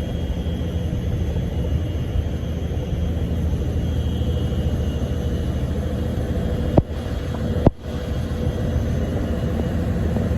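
Train hauled by a DD200 diesel-electric locomotive running past with a steady low rumble and a faint steady hum. Two sharp clicks come about a second apart, a little past the middle.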